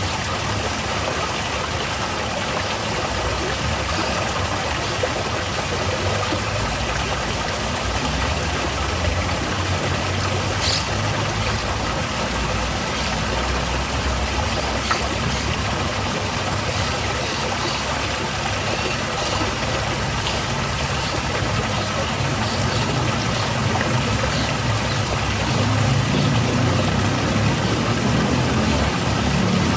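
Small garden waterfall, water falling and splashing in a steady, even rush. A low rumble underneath grows louder near the end.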